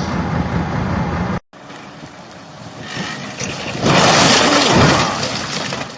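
Heavy vehicle noise: a steady engine rumble, then after an abrupt cut a quieter rumble that swells into a loud rushing noise for about a second and a half before fading.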